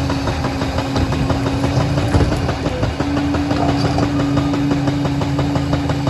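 Liebherr 746 crawler dozer's diesel engine running steadily, with rapid clatter and a steady whine that drops out for about a second midway.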